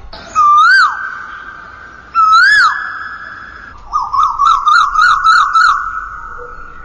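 Asian koel calling: two loud whistled notes that rise and then drop, a couple of seconds apart, then a fast run of shorter rising notes, about five a second, fading near the end.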